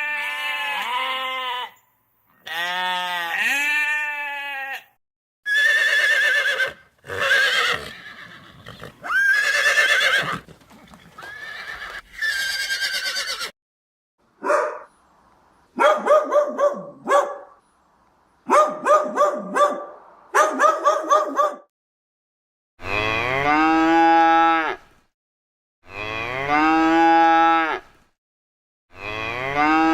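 Recorded farm animal calls played one after another with short silent gaps, several different animals in turn. Pitched, bleating calls open the sequence, a run of short choppy calls comes in the middle, and long calls close it.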